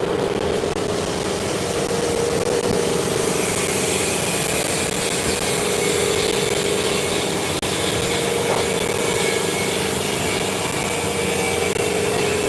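A workshop machine or power tool cutting or grinding metal: a steady rasping noise with a constant hum, running without a break.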